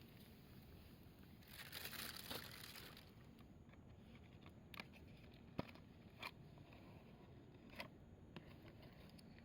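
Faint firewood fire in a fire pit: a short rustling hiss about two seconds in, then a handful of sharp, separate crackles and pops from the burning wood.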